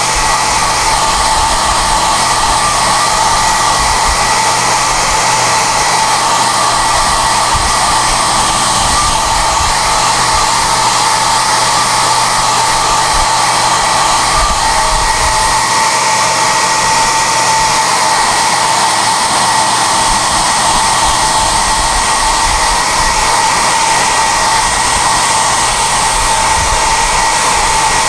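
SOUNATE high-airflow hair dryer (XM-H008) running steadily: a loud, even rush of air with a steady high whine from its motor.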